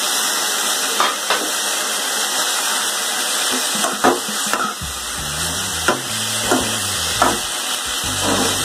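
Raw chicken pieces sizzling in hot oil with sautéed onion and tomato in a metal kadai as a metal spoon stirs them. The spoon clinks against the pan about eight times.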